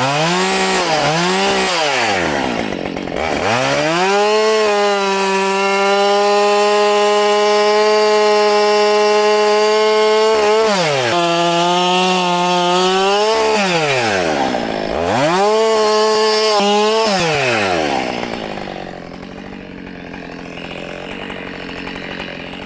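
Husqvarna 572XP two-stroke chainsaw revved twice, then held at full throttle, its pitch pulling down for a couple of seconds as the chain cuts wood, revving up twice more and dropping back to idle near the end.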